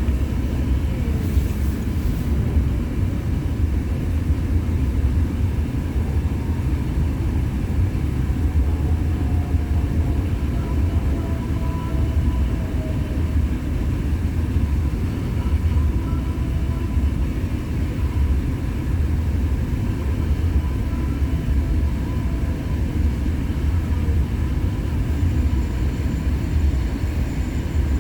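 CN freight train rolling past at trackside, a steady low rumble of the train on the rails.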